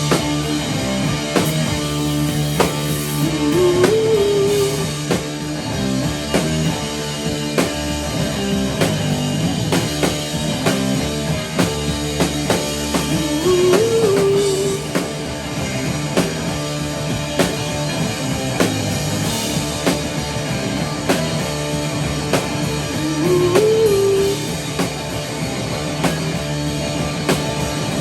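Rock band playing live, with guitar and drum kit. A short rising melodic figure comes round about every ten seconds over the steady playing.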